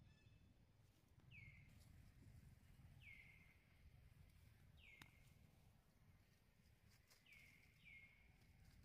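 Near-silent forest ambience with a low steady rumble, over which a bird's short call, falling in pitch, repeats five times at intervals of one to two seconds. A single sharp click comes about five seconds in.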